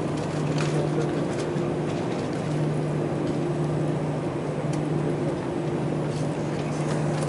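Steady engine and airflow noise inside the cabin of a four-engined Airbus A340-300 airliner moving on the ground after landing. A low hum comes and goes, with a few faint clicks and rattles.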